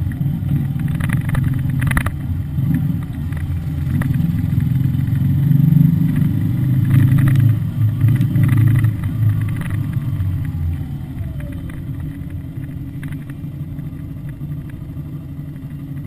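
Yamaha Fazer 150 Blueflex motorcycle's single-cylinder engine running through its stock exhaust. It builds to its loudest around the middle and eases off steadily toward the end.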